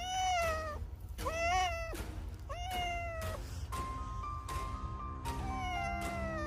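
A cat meowing four times, each meow drawn out for most of a second, over background music.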